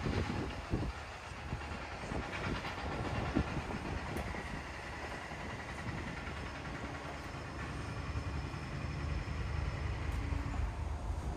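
Train running along the track: a steady rumble that grows louder in the last few seconds, with a couple of knocks in the first second.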